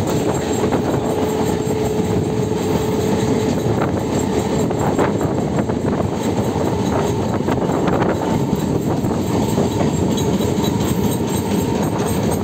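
Netaji Express (Kalka Mail) passenger train running on the rails: a loud, steady rumble with scattered knocks from the wheels, and a faint held tone in the first few seconds.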